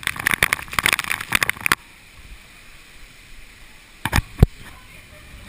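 Raindrops hitting the GoPro Hero2 camera: a dense patter of sharp taps for nearly two seconds that stops suddenly, then two or three loud hits about four seconds in.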